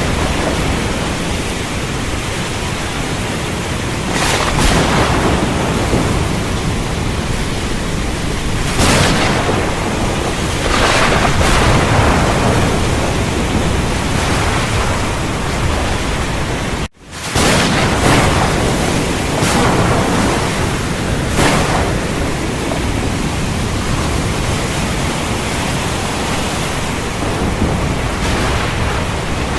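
Heavy rain falling steadily with thunder; several brief swells and crackles rise over the rain. The sound cuts out abruptly for a split second a little past halfway, then resumes.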